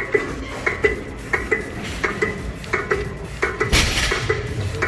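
Steel weight plates clinking on a plate-loaded seated calf raise machine during reps, short ringing clinks about twice a second. A burst of hiss comes in a little before the end.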